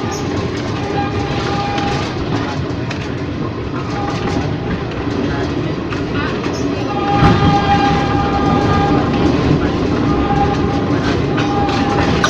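Ex-JR 203 series EMU car running along the track: a steady rumble with the wheels clacking over the rail joints. An on-and-off steady tone with overtones comes and goes, and a louder jolt comes about seven seconds in.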